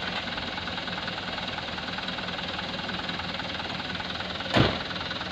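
A dump truck's diesel engine running steadily at low revs, with a single sharp thump near the end.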